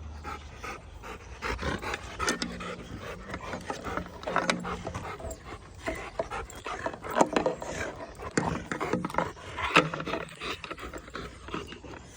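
Rottweilers panting as they play, with irregular scuffling and a few brief low sounds every few seconds.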